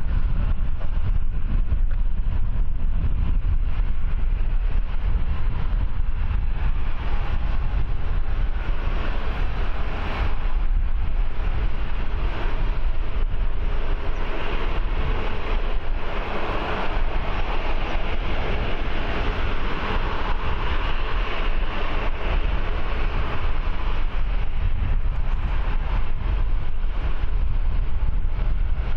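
Strong wind buffeting the microphone with a steady low rumble. A broad rushing jet-engine sound swells through the middle and fades again, an aircraft passing the airfield.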